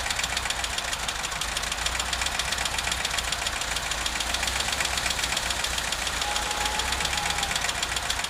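VW Vanagon (T3) engine idling steadily with a fast, even knocking/ticking coming from the engine: the unexplained noise the owner is trying to show.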